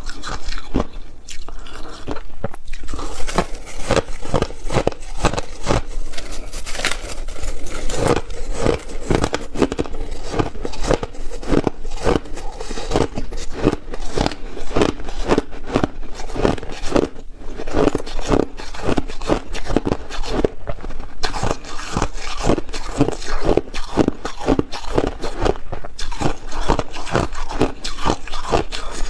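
Ice being bitten and chewed: dense, continuous crunching with many crunches a second.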